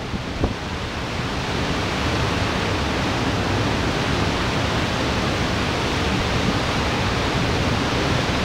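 Heavy downpour of rain, a dense steady rushing hiss that swells slightly about a second in, with a couple of low thumps in the first half second.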